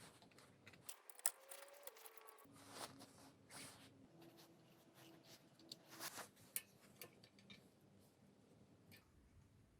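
Faint clicks and taps of small engine parts being handled, scattered irregularly over several seconds, with the sharpest click about a second in.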